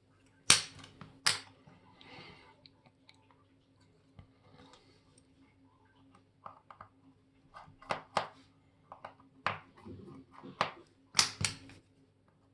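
Sharp, irregular clicks and taps of small watchmaking tools on watch parts, with a few brief scrapes; the loudest clicks come about half a second in and near the end. A faint steady hum runs underneath.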